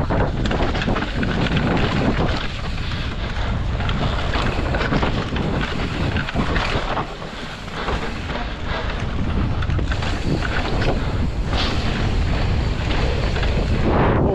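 Wind rushing over the microphone of a camera riding along on a mountain bike descending a trail: a loud, steady rushing noise that eases briefly about seven seconds in.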